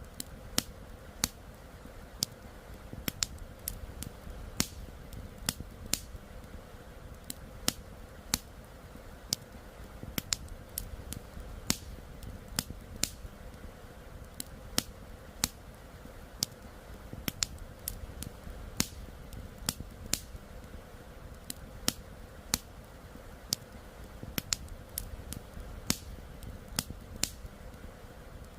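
Wood campfire crackling, with sharp irregular pops about one or two a second, over the low steady rush of a flowing river.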